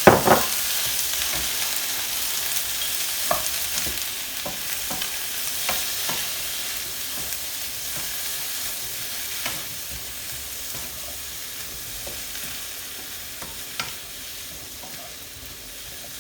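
Defrosted, drained prawns being added to a hot stir-fry pan and stirred: a sudden surge of sizzling as they go in, which slowly dies down, with an occasional knock of the utensil against the pan.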